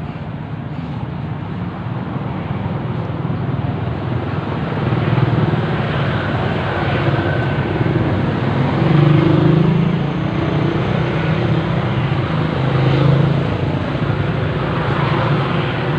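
Steady motor vehicle and traffic noise, a continuous engine-and-road rumble that swells and eases a little.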